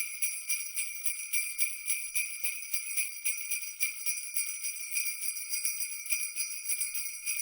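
Sleigh bells shaken in a quick, steady rhythm, a bright high jingling that cuts off suddenly at the end.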